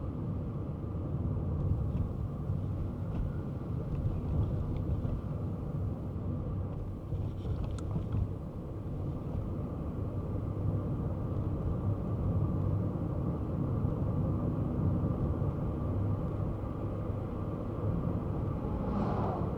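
Kei car driving at a steady pace: continuous low engine and road rumble, with a short rush of noise near the end.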